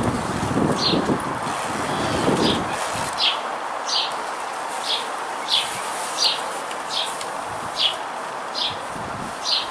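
A bird chirping over and over, a short high note repeated a little more than once a second, over a steady background hiss like distant traffic. Some low rustling sounds in the first few seconds.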